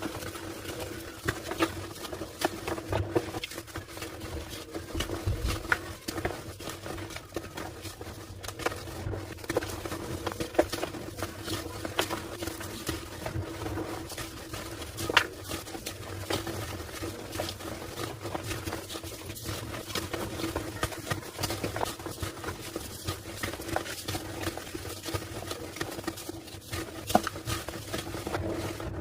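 Slabs of homemade gym chalk being crushed and crumbled by hand: a dense, irregular run of small crunches and crackles. A steady low hum runs underneath.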